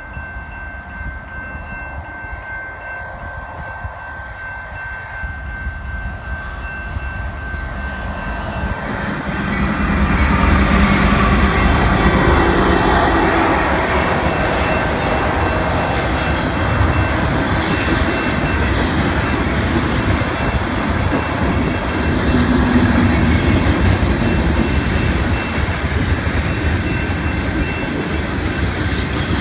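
Level-crossing warning bell ringing in steady high tones as a CN freight train approaches and grows louder. About ten seconds in, the train reaches the crossing: the diesel locomotive and the long string of freight cars rumble and clatter past on the rails, with brief high screeches.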